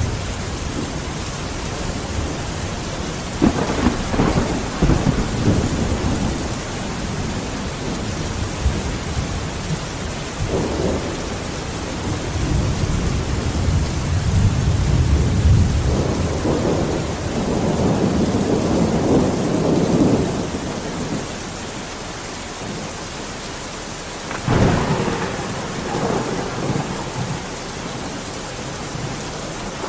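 Steady rain falling with repeated rolls of thunder: a sharp crack-like onset about three seconds in, a long rumble in the middle, and another sudden clap near the end.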